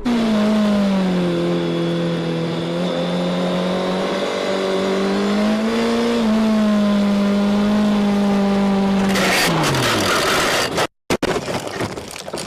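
A motorcycle engine runs at a steady pitch for about nine seconds, then its pitch falls away as a harsh burst of crash noise takes over for the last few seconds and cuts off suddenly.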